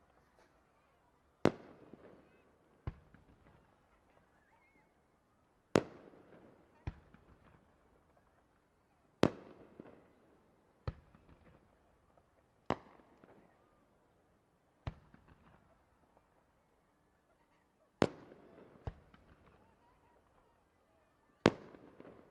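Aerial firework shells bursting: about eleven sharp bangs spaced one to three seconds apart, each trailing off in a short echoing rumble.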